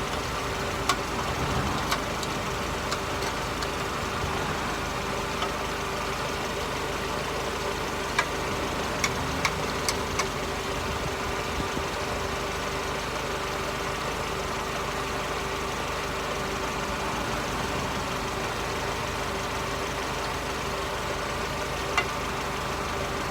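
Mercedes SLK R170 engine idling steadily, heard from under the car at the exhaust, with a few short sharp ticks about a second in, in a cluster around the middle, and once near the end.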